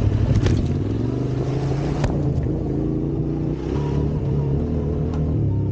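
Trail motorcycle engine running under way over rough ground, its pitch shifting with the throttle, with a brief drop in level about three and a half seconds in.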